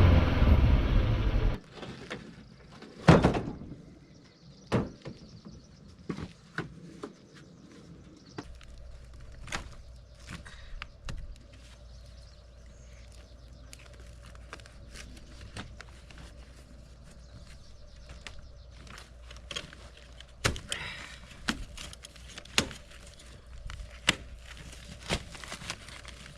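Loud engine noise cuts off about a second and a half in. It is followed by scattered knocks and clunks, the loudest about three seconds in, over a faint steady hum.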